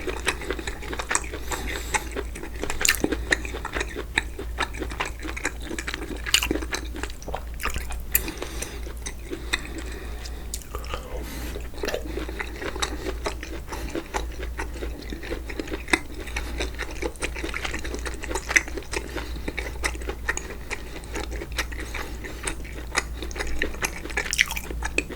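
Close-miked chewing and biting of seasoned pollock (myeongtae chomuchim): wet, irregular mouth clicks and crunches, over a steady low hum.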